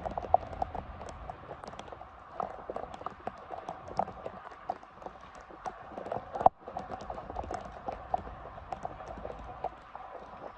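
Rain: many drops tapping irregularly on a nearby hard surface over a steady hiss, with one sharper knock about six and a half seconds in.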